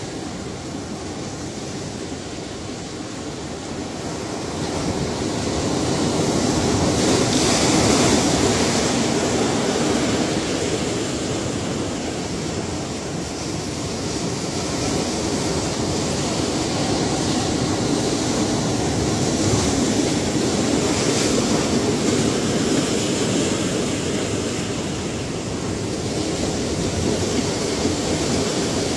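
Ocean surf: a steady wash of breaking waves that swells louder as a wave breaks about seven seconds in, and again around twenty seconds in.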